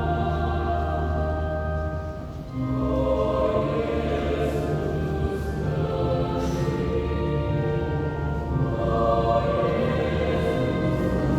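Choir singing in harmony, holding long sustained chords, with a short break for breath about two seconds in.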